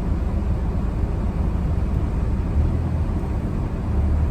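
Steady low rumble inside a car's cabin, with the car's engine idling while it waits to move off.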